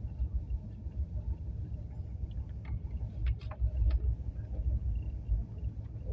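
Moving passenger train heard from its window: a steady low rumble of the train running, buffeted by wind on the microphone, with a few sharp clicks and rattles about three to four seconds in.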